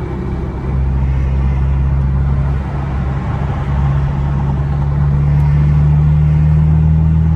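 BMW 428i's turbocharged four-cylinder engine droning steadily under light throttle, heard from inside the car, its pitch stepping up slightly a little past halfway.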